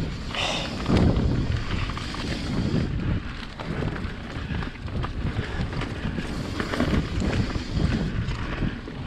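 Wind buffeting an action camera's microphone on a mountain bike descending a dirt trail, with steady tyre rumble and scattered rattles and knocks from the bike over rough ground. There is a louder jolt about a second in.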